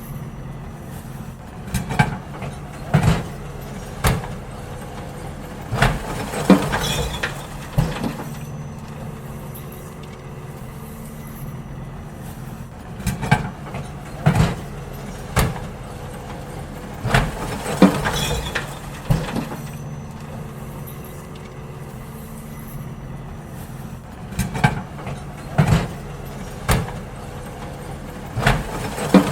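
Garbage truck's diesel engine running steadily while bins are emptied into it, with loud bangs and clatters of the bins knocking against the lifter and hopper coming in clusters every few seconds.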